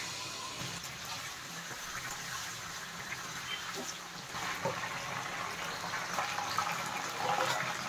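Chicken pieces frying in ghee in a wok, a steady sizzling hiss with small crackles.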